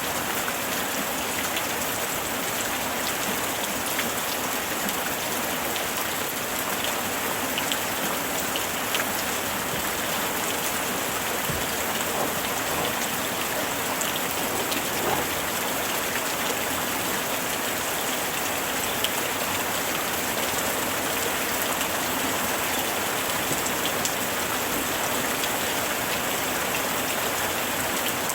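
Steady summer rain falling, a dense even hiss with scattered drop ticks on a surface.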